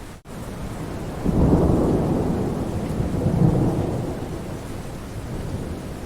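Steady rain falling on a forest, with a roll of thunder that swells about a second in and rumbles away over the next few seconds. A momentary gap in the sound comes just after the start.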